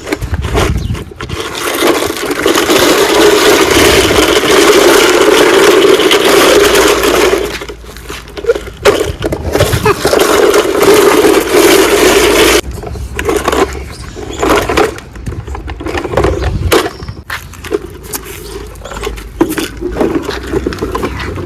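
Toy JCB excavator playing in sand: a small motor whirring steadily with sand scraping for several seconds, then again after a brief pause, followed by irregular scraping and clicking of sand and plastic parts.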